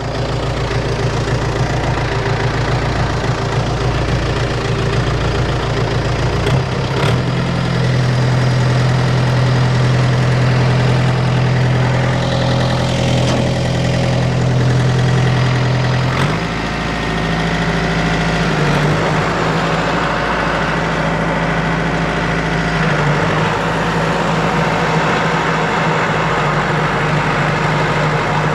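John Deere 1070 compact tractor's diesel engine running, its speed stepping up about six seconds in, dropping back around sixteen seconds, then changing a couple more times.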